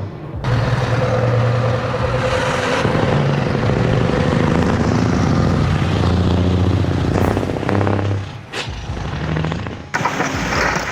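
Heavy truck engines running and pulling away, the engine note rising and falling, with abrupt cuts between shots about half a second in and again near the end.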